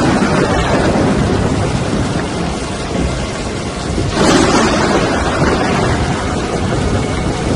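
Storm noise: a loud, steady roar of wind and rain against the microphone, swelling in a surge about four seconds in.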